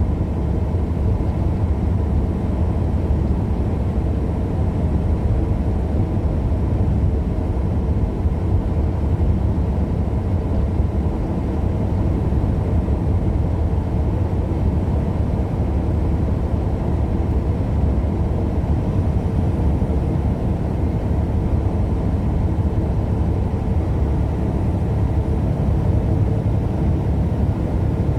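Steady low rumble of engine and road noise heard from inside a moving vehicle at highway speed.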